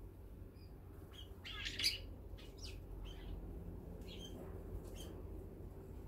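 Brown-eared bulbuls and sparrows calling at a seed feeder. A louder harsh call comes about two seconds in, with short, high chirps scattered before and after it.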